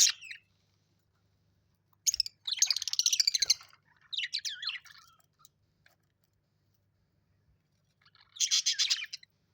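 A parrot chattering and chirping in three bursts: a long one about two seconds in, a shorter one right after, and another near the end.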